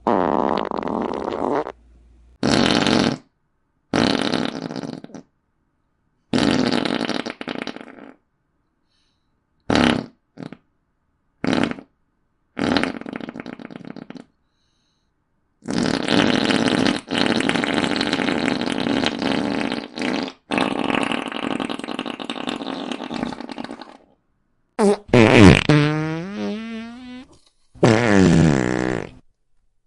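A run of about ten fart sound effects with short silences between them, from brief blasts to one long drawn-out fart lasting about eight seconds. Near the end one wobbles and slides in pitch.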